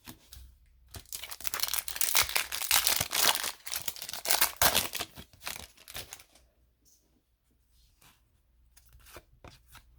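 Hockey card pack wrapper being torn open and crinkled for about five seconds, followed by a few light clicks of cards being handled.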